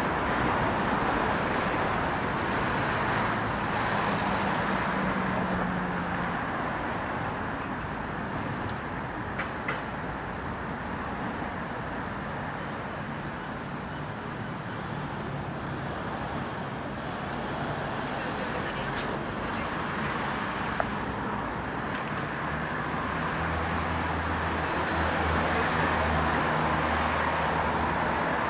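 Steady street traffic noise from passing vehicles, with a low engine hum coming in during the last few seconds.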